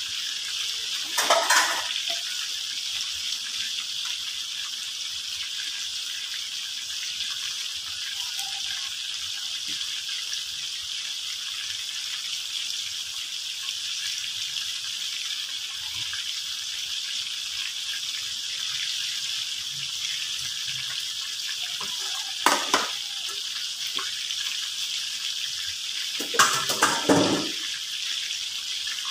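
Chicken pieces frying in hot oil in a wok, a steady sizzle, with a few short louder crackling bursts: one about a second in and others near the end.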